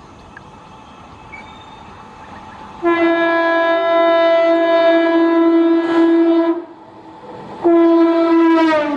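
Electric multiple-unit (MEMU) train sounding its horn while running through: one long blast of about three and a half seconds, then a shorter second blast whose pitch falls at its end. Between and before the blasts, the train's running rumble.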